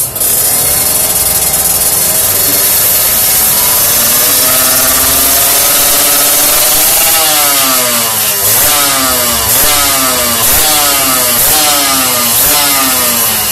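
Kawasaki Ninja R two-stroke motorcycle engine revving through a Cream-Pie aftermarket exhaust: a long, steady climb in pitch, then about six quick throttle blips, roughly one a second.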